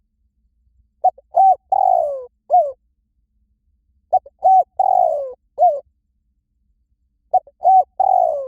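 Spotted dove cooing: three phrases about three seconds apart. Each phrase is a couple of short coos, then a longer falling coo and a final rising-and-falling note.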